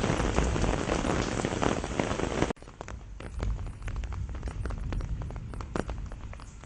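Steady heavy rain that cuts off abruptly about two and a half seconds in. It gives way to quieter, scattered drops striking one by one.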